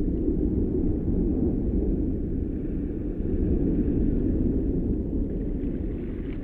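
A steady low rumble, with no music or voice in it.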